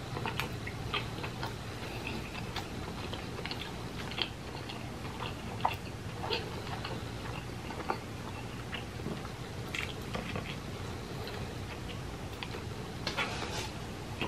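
A person chewing a mouthful of soft sandwich with the mouth closed: small wet clicks and smacks at irregular intervals, a little busier near the end, over a faint steady low hum.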